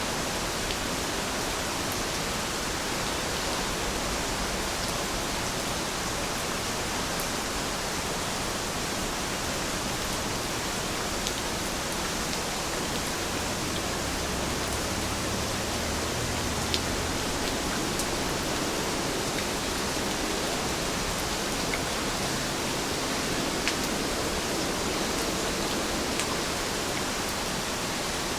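Heavy rain falling steadily as an even hiss, with scattered sharp drop ticks on top.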